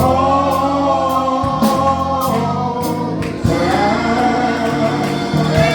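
Gospel music: singers holding long notes over a band with bass, keys and regular drum or tambourine strokes.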